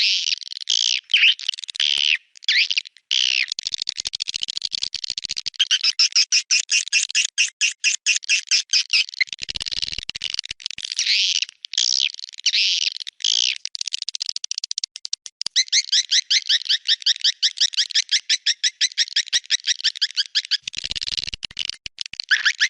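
Swiftlet calls: dense high chirps and twitters that break into long, fast rattling trills of evenly spaced clicks. It is a recorded swiftlet call track of the kind played at swiftlet houses to lure the birds in to nest.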